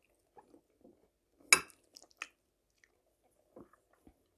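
Close-up chewing of a mouthful of spaghetti and fried mushrooms: soft, wet mouth sounds. A sharp click about a second and a half in is the loudest sound, with a smaller click just after.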